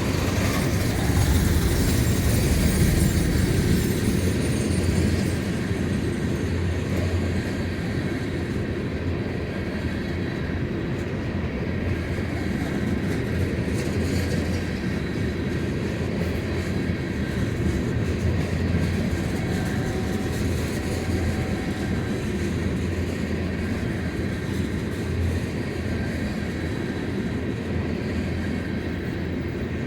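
Empty freight cars of a long freight train rolling past: a steady rumble of steel wheels on rails, a little louder for the first five seconds.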